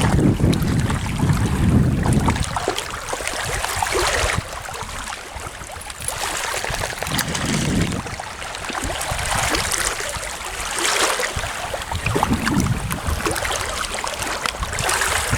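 Lake water splashing and lapping in irregular surges, with wind buffeting the microphone as a low rumble in the first couple of seconds.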